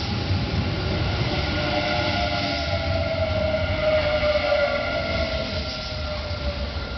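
Kintetsu limited express electric train running, with a rumble and a whine that falls slowly in pitch a few seconds in.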